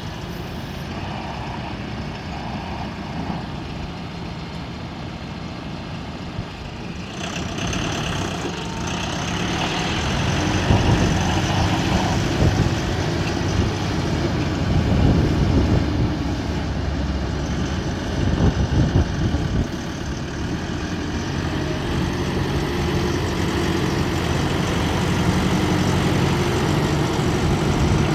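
Diesel engine of a 2018 Mahindra 7095 tractor running. It gets louder about seven seconds in and rises and falls through the middle, then settles into a steady run.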